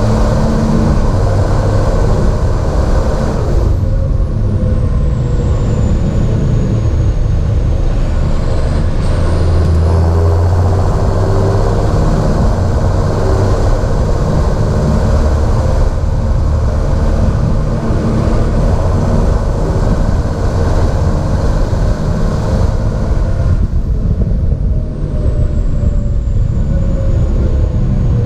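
John Deere 7430 Premium tractor's six-cylinder diesel engine running steadily and loud. A high whine glides down and back up twice, and the engine pitch drops slightly near the end.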